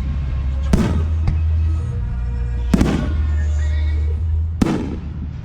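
Fireworks shells bursting: three loud bangs about two seconds apart, each with a short echoing tail, over music with a deep, steady bass.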